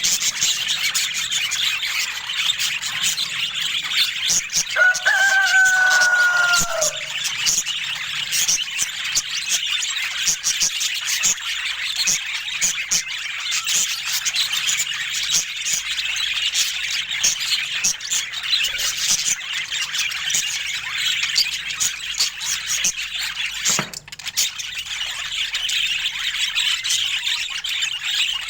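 A flock of budgerigars chattering and chirping continuously, with many quick clicks and chirps, and one longer, slightly falling call about five seconds in.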